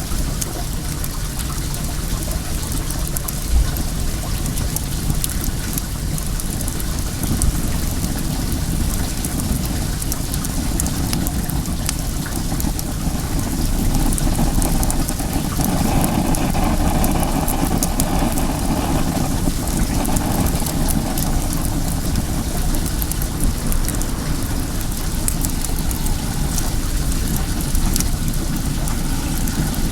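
Steady rush of running well water with faint crackles from a wood fire. A low rumble swells up about halfway through and fades again a few seconds later.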